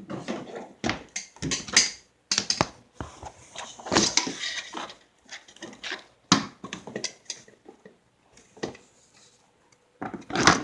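Rustling, tapping and knocking of things being handled, in irregular short spells with a longer noisy rustle about four seconds in and a quiet stretch near the end.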